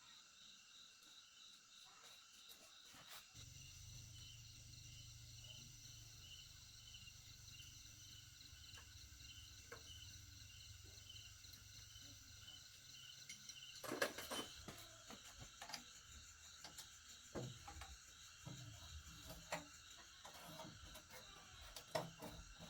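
Faint, steady insect chirring with a regular pulse. A low hum joins about three seconds in and stops about two-thirds of the way through, followed by scattered knocks and clicks.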